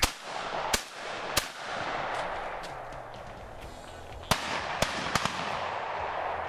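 Shotguns firing six shots in two quick volleys of three, about three seconds apart, at ducks called in on a duck hunt, with a steady rushing noise between the shots.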